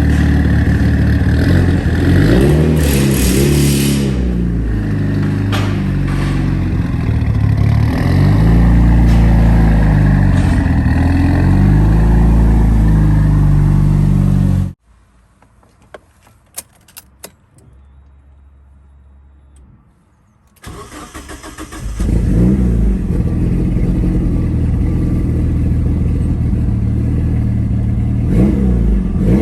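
Mitsubishi Lancer Evolution VII's turbocharged 2.0-litre four-cylinder engine running through a full 3-inch Tomei titanium Expreme exhaust, lumpy at idle from 266 cams and blipped up and down repeatedly. About halfway it cuts off suddenly, leaving a few clicks; several seconds later it starts again and is revved some more.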